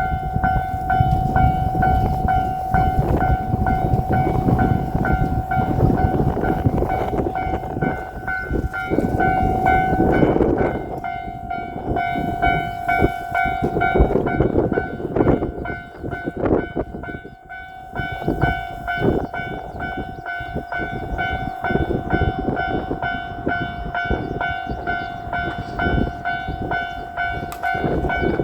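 Japanese level-crossing alarm ringing in a steady repeating tone over the rumble of a JR Shikoku 2700-series diesel limited express railcar train passing the crossing. Its wheels clack over the rail joints through the second half.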